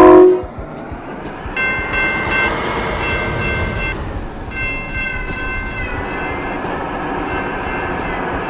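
Miniature railway train running on its track: a steady rumble, with high-pitched squealing tones that come and go three times. A loud pitched tone cuts off right at the start.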